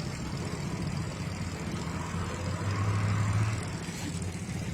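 Scania 550 hp marine diesel engine of a riverboat running under way, a steady low exhaust drone that swells louder for about a second near the middle.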